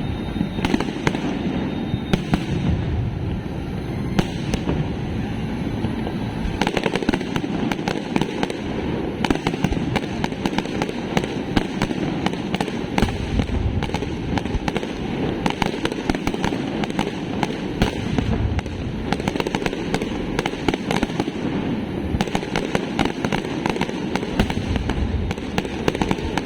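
Fireworks display: a dense, unbroken barrage of rapid bangs and crackles, busiest through the middle stretch.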